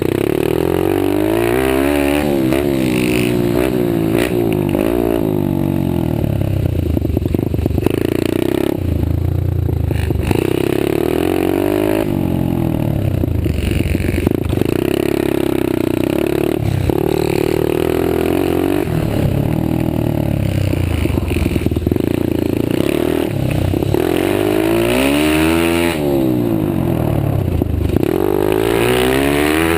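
Pit bike engines racing: repeated revving up through the gears and dropping off again every couple of seconds, with more than one bike heard at once in places.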